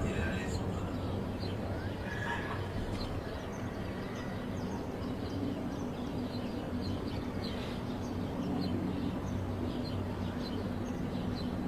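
Small birds chirping over a steady low hum of background noise, with a deep rumble fading away in the first second.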